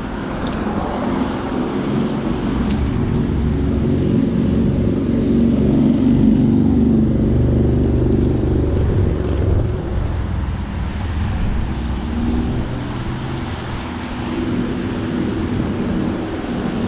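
Motor vehicle engine and road noise during a ride, steady and low, swelling a few seconds in and easing off near the middle.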